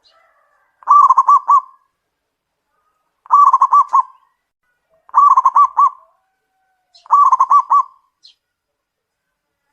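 Zebra dove (perkutut) cooing: four song phrases about two seconds apart, each a short run of quick rolling notes.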